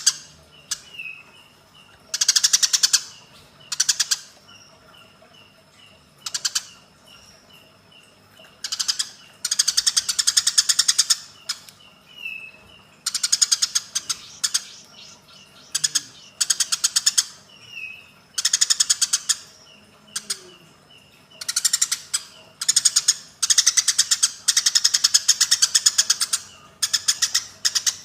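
Eurasian tree sparrows fighting: repeated bursts of rapid, harsh chattering, each lasting up to two seconds and coming every second or two, with softer chirps between the bursts.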